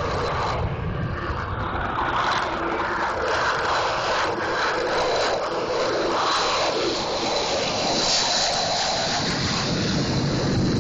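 F-16 fighter jet engine noise on takeoff: a loud, steady rumble and hiss with no let-up, and a faint high whine that comes up around eight seconds in.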